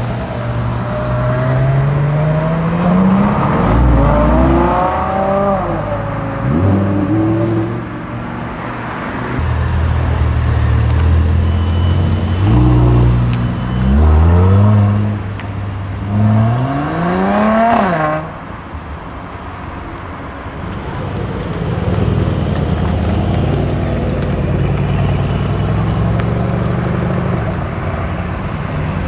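High-performance cars accelerating away one after another, engines revving up in repeated rising pulls. The loudest pull comes about 17 seconds in and cuts off sharply near 18 seconds, followed by steadier engine noise as another car passes.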